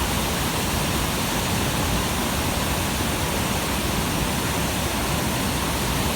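Waterfall, water pouring over a rock ledge with a steady, even rush.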